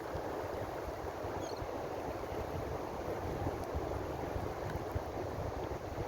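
Ocean waves: a steady, even wash of surf with a low rumble underneath, without distinct separate breakers.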